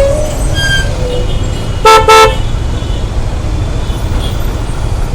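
A vehicle horn sounds two short honks in quick succession about two seconds in, over a steady low rumble of road traffic.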